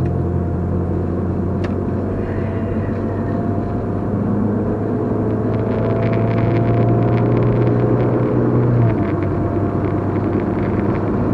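Engine and road noise inside a Chevrolet Equinox's cabin as it speeds up toward a highway merge: a steady low hum that grows slowly louder.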